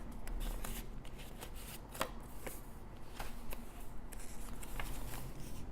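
Paper pages and cards of a handmade junk journal being turned and handled: papery rustles and crisp taps, the sharpest about two seconds in and again a little after three seconds.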